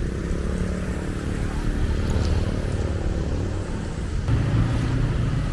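Motor vehicle engine running close by in street traffic, a steady low hum that swells about four seconds in.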